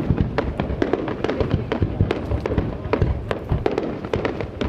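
Aerial fireworks bursting in quick succession, a dense run of bangs and crackles several times a second over a low rumble.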